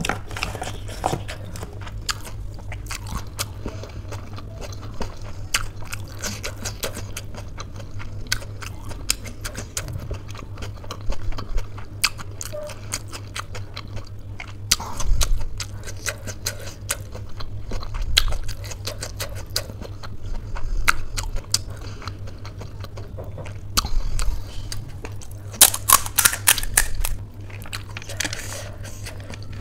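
Close-miked chewing and crunching of crisp phuchka (panipuri) shells with spicy filling: a stream of small wet crackles, heavier crunches now and then, and a dense run of crackling near the end.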